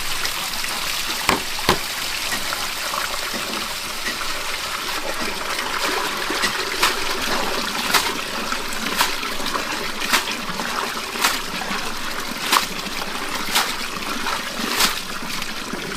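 Steady trickling and splashing water. Through the second half, sharp knocks come about once a second.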